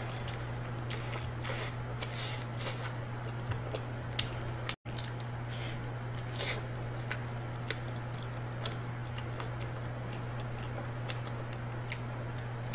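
Close-miked chewing of a slice of pizza: irregular crisp crackles and small wet mouth sounds over a steady low hum. The sound drops out for an instant a little before the middle.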